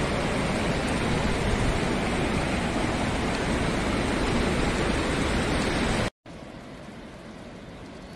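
Loud, steady rush of floodwater from an overflowing river. About six seconds in it cuts off abruptly, and a much quieter steady hiss follows.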